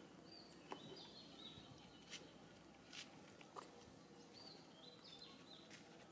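Quiet ambience with a bird singing two short phrases of high chirping notes, one near the start and one about four and a half seconds in, and a few faint clicks.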